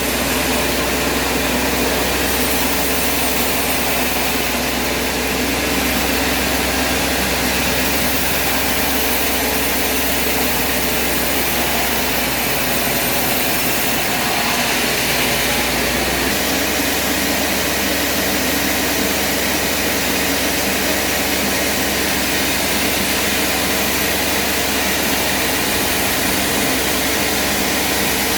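A heavy machine's engine running steadily under load, with a dense, even noise. Its deepest hum drops away about 16 seconds in.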